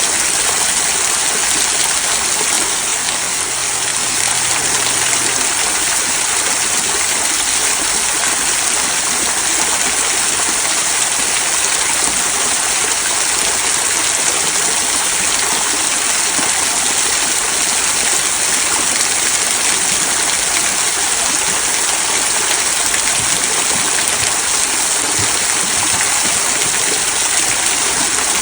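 Small rock waterfall trickling and splashing over stones into a stream, a steady, even rush of water.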